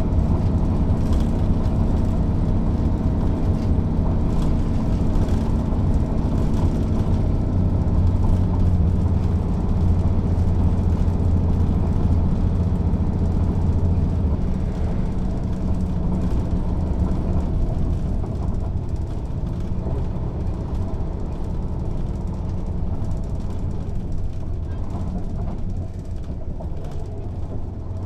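Mercedes-Benz O 407 city bus's diesel engine running steadily with a strong low drone while the bus is under way. The sound eases off gradually through the second half and drops again shortly before the end.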